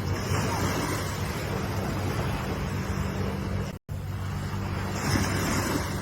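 Ocean waves washing in, the surf swelling about half a second in and again near the end, over a steady low hum. The sound cuts out completely for an instant just before four seconds.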